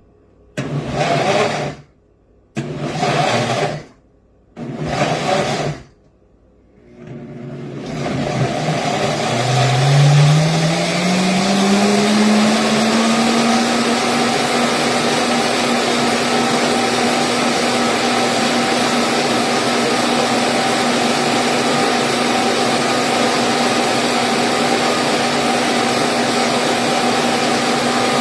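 Hamilton Beach Professional 2.2 HP mixer grinder motor run in three short pulses of about a second each. It is then switched on to run continuously, its pitch rising over a few seconds as it comes up to speed, then holding steady.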